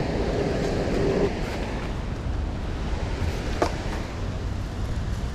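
Steady rushing noise of flowing river water, with wind buffeting the microphone, and a single brief click a little over halfway through.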